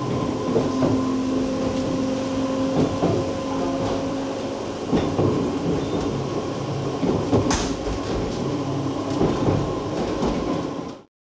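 Interior running noise of a Vivarail Class 230 D-train, a rebuilt London Underground D78 stock car, under way: wheels on rail with clicks and rattles over a steady hum. A brief sharp hiss comes about two thirds of the way through, and the sound cuts off suddenly shortly before the end.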